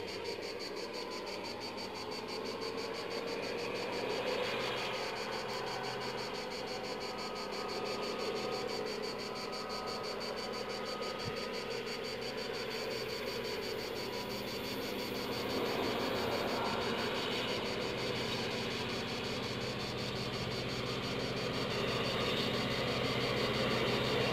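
Steady chirring of insects in a fine, fast, high-pitched pulse, over a low background hum that grows slightly louder near the end.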